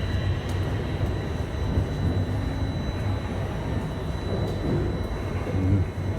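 A subway train standing at the station platform with its equipment running: a steady rumble and hum with a thin, steady high-pitched tone.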